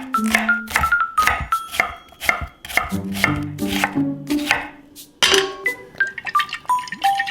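Knife chopping ingredients on a cutting board, a steady run of strokes about two or three a second, over light background music.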